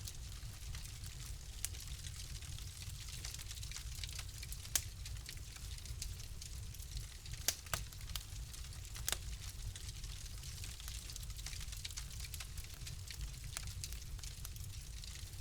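Fire crackling in a fireplace: a steady low rumble of flame with a constant scatter of small pops and snaps. A few sharper pops stand out about five, seven and a half and nine seconds in.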